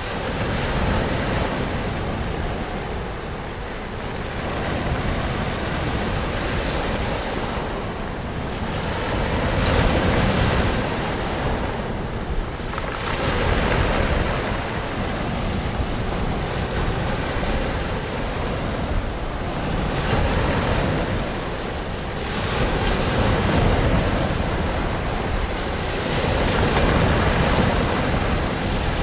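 Ocean surf: waves breaking and washing in, a steady rush of water that swells and eases every few seconds.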